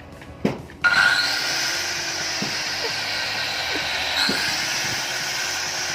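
Angle grinder's electric motor switching on about a second in, spinning up and then running free with a steady high whine. It runs again now that its carbon brushes have been replaced: worn carbon brushes were why it would not start.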